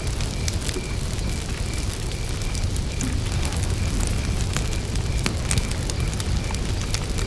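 Campfire burning, wood crackling and popping in scattered sharp clicks over a steady low rumble. A cricket chirps evenly, about three chirps a second.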